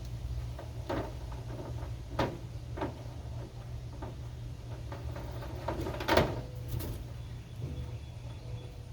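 A few scattered knocks and clacks, the loudest about six seconds in, over a low steady hum.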